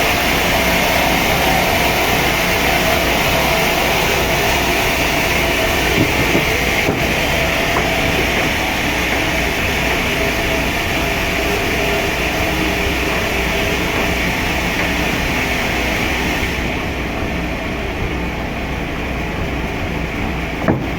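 Sawmill machinery running steadily, a constant mechanical noise with a steady hum; the higher hiss falls away about three-quarters of the way through.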